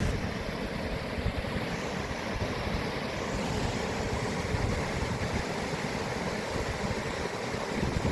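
Water rushing, a steady noise with a heavy, uneven low rumble beneath it.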